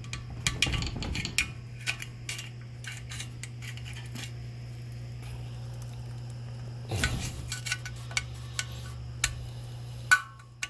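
Irregular metal clicks and clinks of hand tools working at the valve cover of a Honda 190 small engine, with a sharp click near the end, over a steady low hum.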